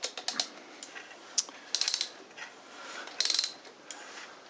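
Ratchet wrench clicking in several short, quick runs as the crankshaft of a 1974 Honda CB360's twin-cylinder engine is turned over by hand to bring the ignition timing marks around for a static timing check.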